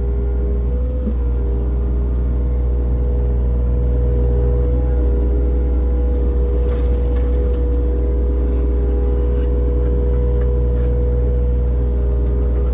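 Engine of a construction machine running steadily at a constant speed, a low, even hum.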